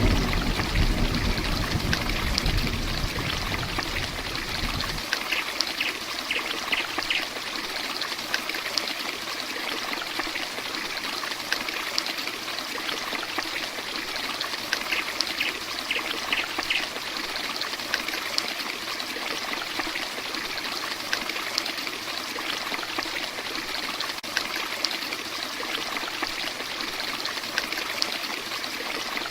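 Heavy rain falling steadily, an even hiss of water with scattered small drips and spatters. A low rumble of thunder fills the first few seconds and cuts off about five seconds in.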